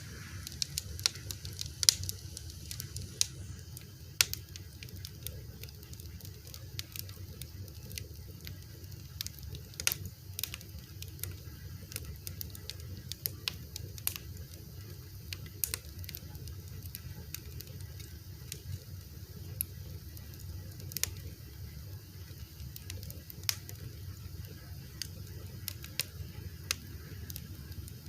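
Wood fire burning, with frequent irregular sharp crackles and pops over a steady low rumble of flame.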